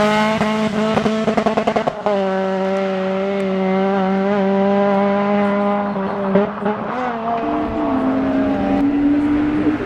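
Rally car engine at high revs on a tarmac stage. The note stutters briefly between about one and two seconds in, then holds steady and slowly falls in pitch.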